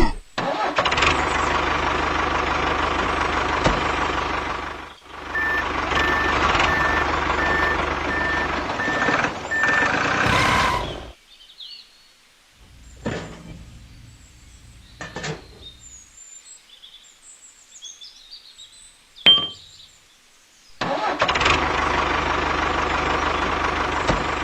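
A small motor running steadily in three stretches, cut off between them. A row of short, even beeps sounds during the second stretch. The quiet gap in the middle holds only a few sharp clicks.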